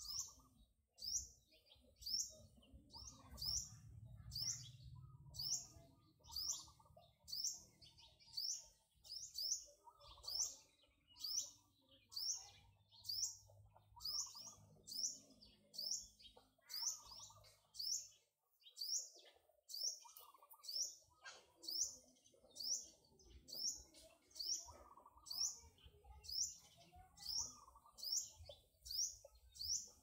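A bird calling over and over, a short high chirp repeated steadily a little more than once a second.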